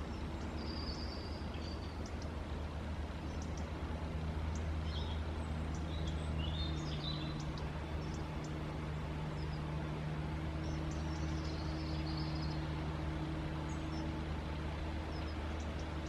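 A steady low hum with a few short, high bird chirps and calls scattered over it.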